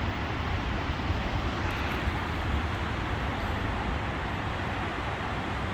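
Steady road traffic noise from an interstate highway: a constant rush with a low rumble.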